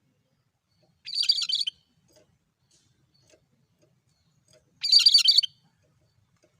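Cucak kerinci calling: two short bursts of quick, chattering notes, about four seconds apart.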